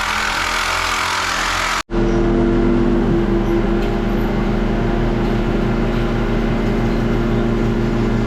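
A loud rushing noise cuts off abruptly about two seconds in, followed by a skid steer's diesel engine running at a steady idle.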